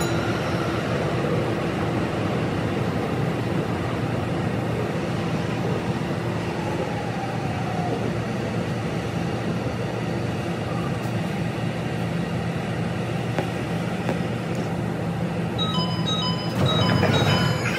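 Tsukuba Express electric train running through a subway tunnel, heard from the driver's cab and sped up to double speed: a steady rail rumble with a motor whine that glides in pitch. Near the end a short repeating electronic chime sounds, then a louder rush.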